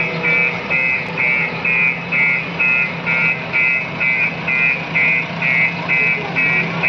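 Electronic beeper sounding in a steady rhythm of about two beeps a second, over a continuous low hum.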